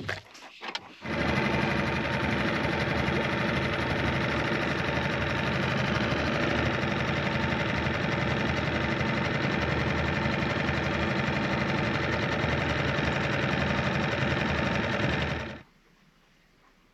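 Suzuki 4 HP outboard motor running steadily at a constant speed, then cutting off suddenly near the end.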